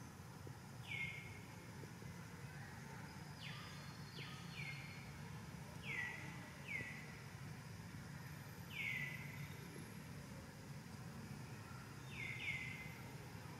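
A bird calling with short notes that fall in pitch, about seven of them at irregular gaps, over a steady low hum of background noise.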